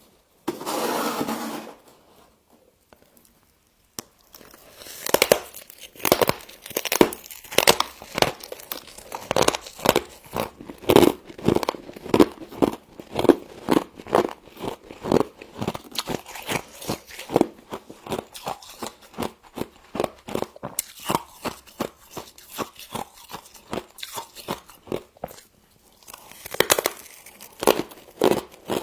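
A person chewing frost: a long run of crisp, close crunches, about two a second. A short burst of rustling noise comes just before the crunching starts, and another near the end.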